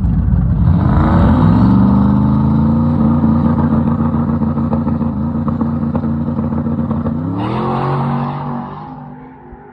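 Drag race car engine revving up and holding at high revs for several seconds. The pitch climbs again near the end before the sound falls away.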